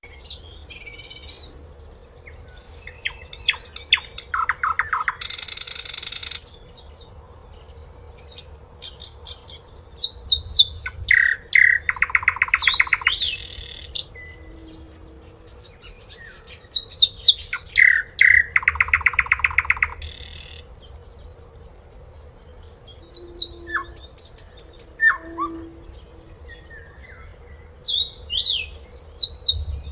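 Sikatan londo flycatcher singing: phrases of varied high whistled notes, each running into a rapid trill and ending in a short harsh rasp, the pattern repeating about every seven seconds. A faint steady hum runs underneath.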